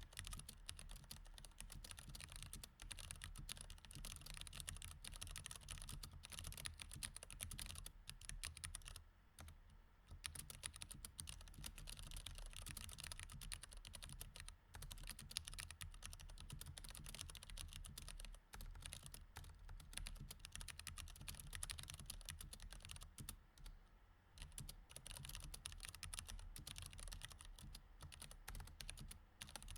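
Mechanical keyboard with Cherry MX Red switches, typed on quickly and steadily in a dense run of key clicks. There are brief pauses about nine seconds in and again around twenty-four seconds.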